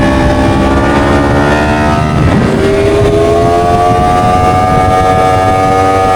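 Motorcycle engine running under load, its pitch sinking over the first two seconds, then, after a brief rough moment, climbing steadily as it revs up.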